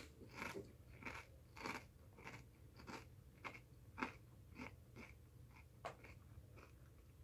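Quiet, close-up chewing of a Doritos Blaze tortilla chip: a steady run of dry crunches a little under two a second, fading as the chip is chewed down.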